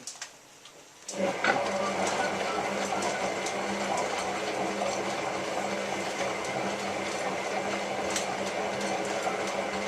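Hotpoint 9534A washing machine starting up about a second in, then running steadily with a low hum and an even rushing sound, part of its descaling wash cycle.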